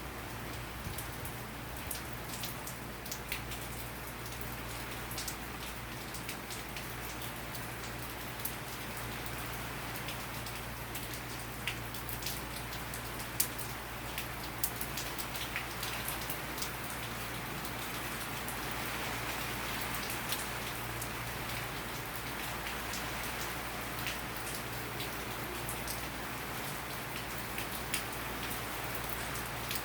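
Steady rain falling, with many separate drops striking close by as short sharp ticks; it grows a little heavier in the second half.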